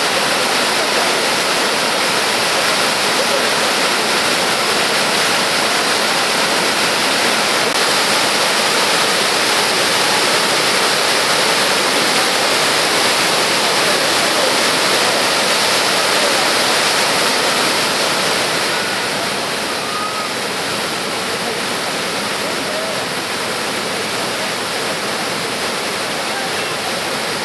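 Yudaki waterfall's water rushing steadily as a dense roar of falling water, easing slightly in loudness about two-thirds of the way through.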